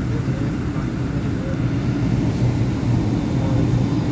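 Steady low drone of a Boeing 757-200 airliner cabin in flight, engine and airflow noise heard from a window seat over the wing.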